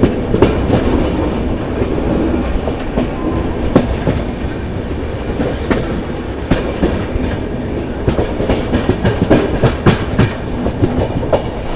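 Chennai Rajdhani Express passenger coaches running at speed, heard from an open coach door: a steady low rumble with irregular sharp clacks as the wheels cross rail joints and points.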